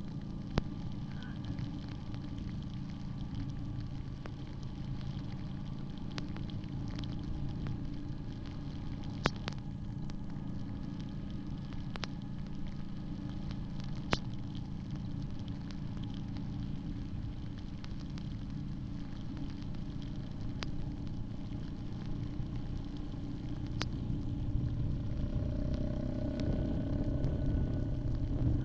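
Yamaha Grizzly 700 ATV's single-cylinder engine running steadily under way, with low rumble and a few sharp clicks. The engine gets somewhat louder near the end.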